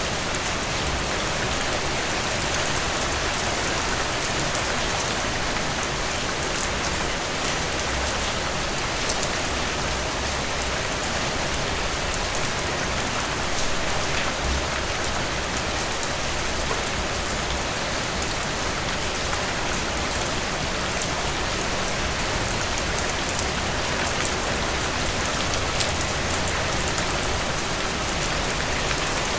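Steady rainfall, an even hiss of rain with many small drops ticking on a surface, without thunder.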